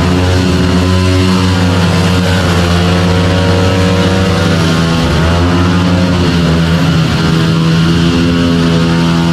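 Several mini bike engines running together at a steady, loud pitch, which falls and rises again a couple of times as the bikes ease off and accelerate.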